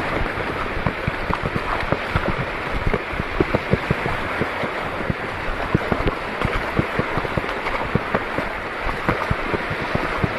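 Water sloshing and splashing in many irregular small bursts, with wind buffeting the microphone.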